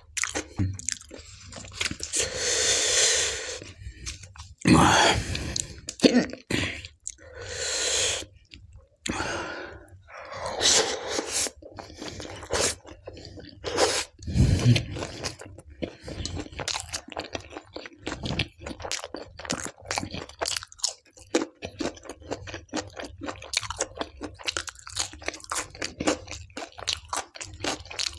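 Close-miked eating sounds: a man chewing tandoori naan dipped in dal by hand, with many wet mouth clicks and smacks. Several louder, noisier stretches of about a second come in the first half.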